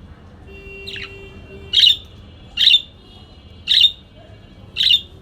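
A parakeet giving short, sharp calls over and over, about one a second, five in all, the first one fainter.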